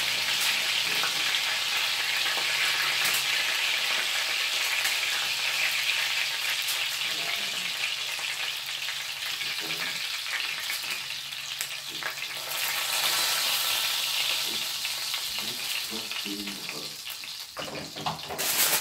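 Turkey meatballs sizzling in hot oil in a cast iron skillet, a steady hiss that grows a little quieter near the end. Occasional light clicks come from metal tongs lifting the meatballs out of the pan.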